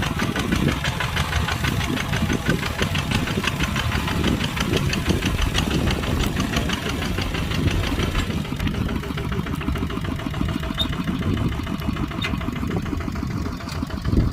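Kubota ZT140 single-cylinder diesel engine running with an even, knocking firing beat. About eight seconds in, its higher clatter drops away while the low engine note carries on.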